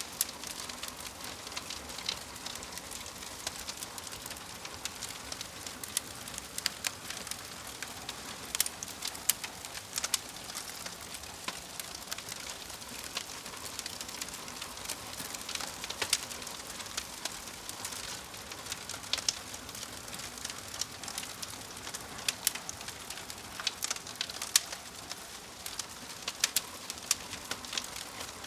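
Wood fire of burning logs in a fireplace, crackling and popping: irregular sharp snaps, several a second, over a steady soft hiss.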